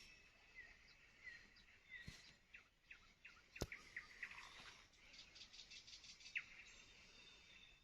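Birds singing faintly: short falling whistled notes repeated about once a second, assorted chirps, and a rapid high trill about five seconds in. There is one sharp click about three and a half seconds in.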